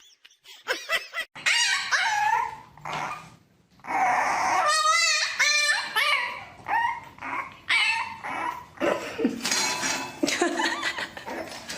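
A dog vocalizing in a run of short, high-pitched calls, one near the middle wavering up and down in pitch.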